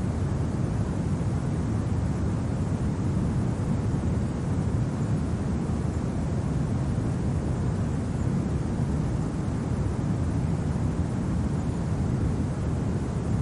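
Steady low wind, a deep even rumble with no gusts or breaks, as in a winter storm ambience recording.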